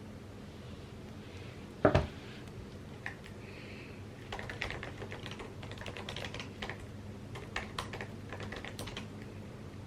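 Typing on an Apple computer keyboard: a louder double knock about two seconds in, a single key click, then a run of quick keystrokes.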